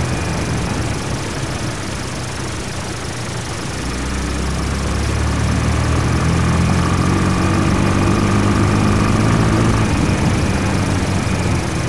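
Honda Twister 250 single-cylinder motorcycle engine running while riding, over a steady rush of wind noise. About four seconds in, the engine note steadies and grows louder under throttle, then eases off shortly before the end.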